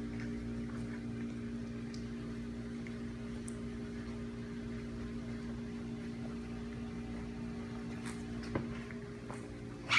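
Steady electrical mains hum, with a faint tap about eight and a half seconds in.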